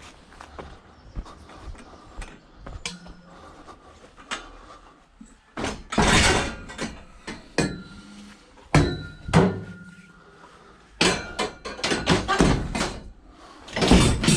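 Knocks, bangs and clattering of scrap junk being picked up and thrown into a van's load area. Quiet handling at first, then several loud clusters of impacts from about halfway in.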